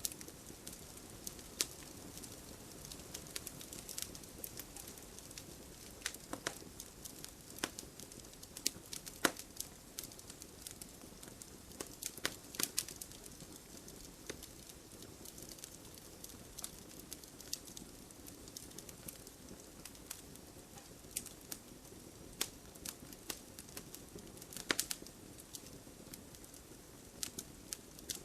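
Wood fire burning in a fireplace, crackling with scattered sharp pops over a steady low hiss, a few pops louder than the rest.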